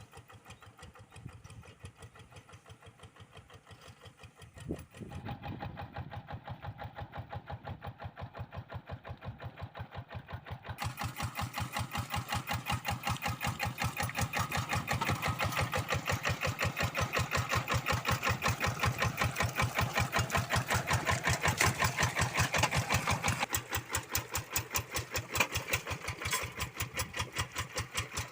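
Kubota RD85DI single-cylinder diesel on a Quick G1000 hand tractor running with a steady, even chugging. It gets louder about five seconds in and louder again about eleven seconds in, then eases back a little near the end.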